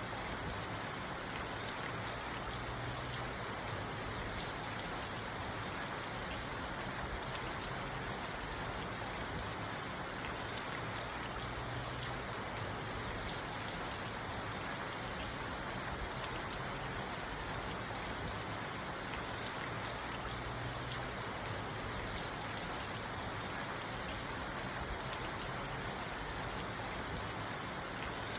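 Steady rain falling on a parked car, heard from inside the cabin as an even patter on the roof and glass.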